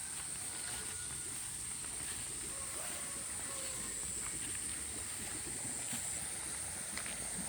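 Flood-swollen river rushing past: a steady wash of water noise, with a thin high-pitched steady tone above it.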